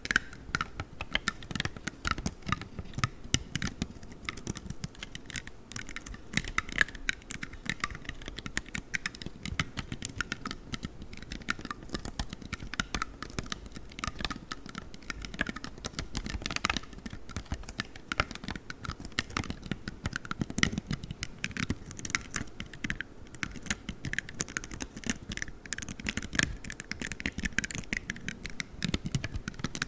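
Play foam being squeezed and kneaded by hand, giving a dense, continuous run of tiny crackles and clicks.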